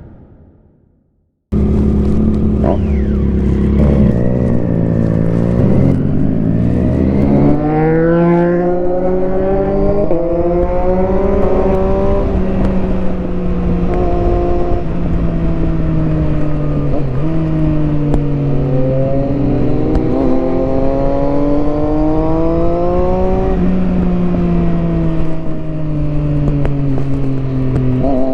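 Triumph Street Triple 675R's inline three-cylinder engine through an HP Corse Hydroform exhaust. It cuts in about a second and a half in and runs steadily at low revs. It then accelerates hard, and its revs rise and fall through a series of gear changes under way.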